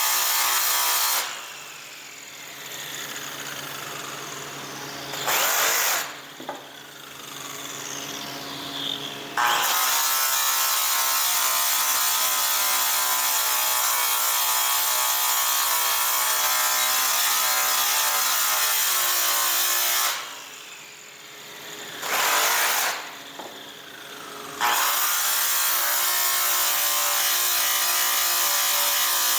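Handheld power tool sanding a metal aircraft exhaust pipe, running at a steady high speed. Four times it is let off, and the whine falls away as it spins down before it speeds back up.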